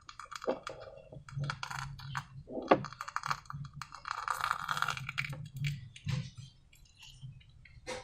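Slime being worked by hand: a run of small wet clicks and crackles, with one sharper snap a little under three seconds in.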